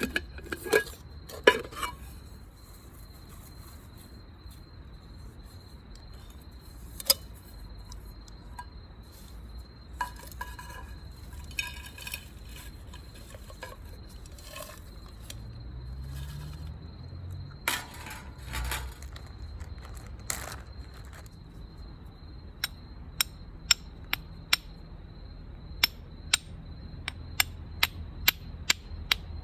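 Clinks and knocks of cookware and utensils, ending in a run of sharp taps about two a second, over a steady high-pitched tone.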